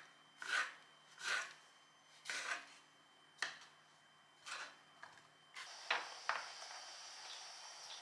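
Knife strokes scraping through food on a wooden cutting board, about one a second. Past the middle, a steady hiss sets in with a few sharp clicks.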